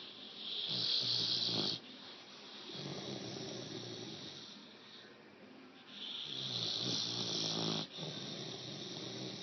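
Bully-breed dog snoring in its sleep: two loud snores, one about half a second in and one about six seconds in, each followed by a longer, quieter snoring breath.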